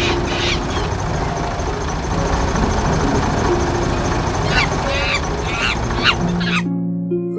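A steady engine-like rumble with groups of short, high, squeaky chirps over it. The rumble cuts off abruptly about a second before the end.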